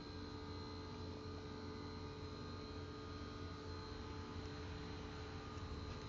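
Steady electrical hum with faint background noise: room tone, with no distinct mechanical event.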